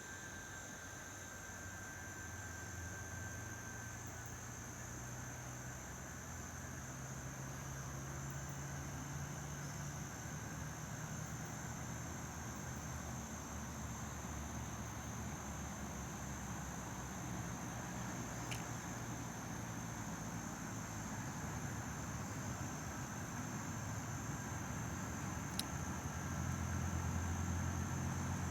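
Low, steady engine hum that grows louder through the sound and most of all near the end, with a steady high-pitched tone above it and two brief faint clicks.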